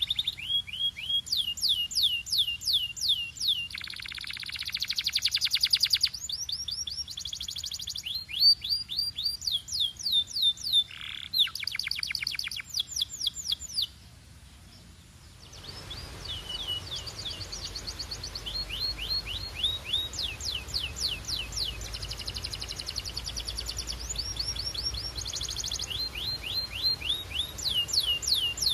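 Domestic canary singing in long rapid trills of repeated sweeping notes, high-pitched, with a pause about 14 seconds in before the song resumes. A steady low background hiss rises after the pause.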